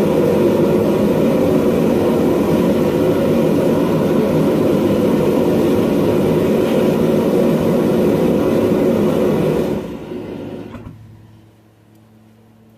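Propane burners of a homemade gas forge burning with a loud, steady rushing noise, then shut off about ten seconds in, the noise dying away over a second or so to a faint low hum.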